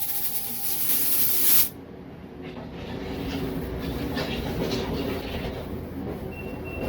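A loud, steady hiss cuts off abruptly about a second and a half in, giving way to low background rumble with faint clatter. Near the end, a vehicle's reversing beeper starts beeping steadily.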